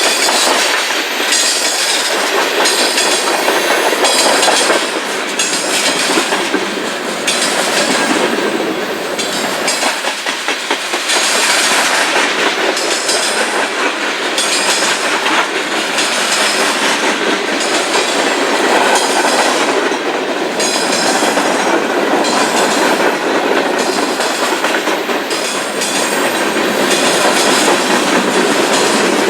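Railroad cars rolling past close by, a continuous loud clatter of steel wheels on the rails with a regular beat.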